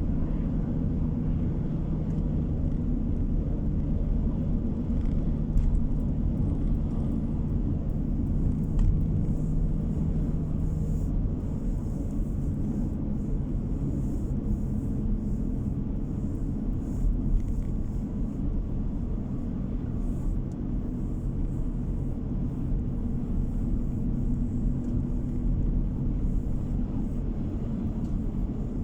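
A car driving at a steady speed, heard from inside the cabin: a constant low rumble of engine hum and tyre road noise.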